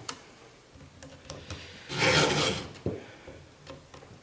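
A Stihl two-in-1 chain sharpener rasps across a chainsaw tooth and its raker in one full push stroke about two seconds in, the round file and the flat raker file scraping the chain, with light scrapes and clicks of the guide around it.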